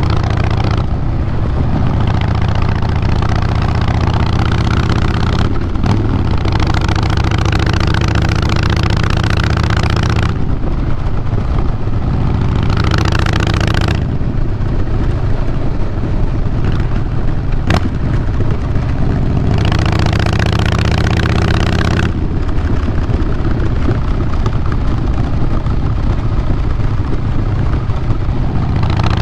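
A 2012 Harley-Davidson Fat Boy Lo's Twin Cam 96 air-cooled V-twin runs through Vance & Hines Big Radius 2-into-2 exhaust, a steady low rumble. A brighter rushing noise comes and goes over it several times.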